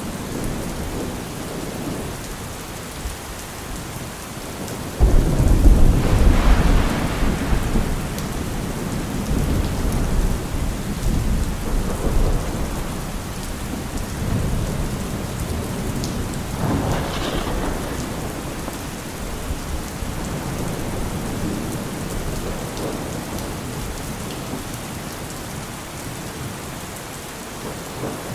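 Heavy rain falling steadily in a thunderstorm. A loud clap of thunder breaks in suddenly about five seconds in and rumbles for a few seconds. A second, weaker rumble of thunder comes about two-thirds of the way through.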